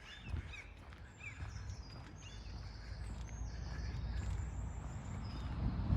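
Small birds calling outdoors in short chirps and thin high notes, over a low rumble that grows louder toward the end.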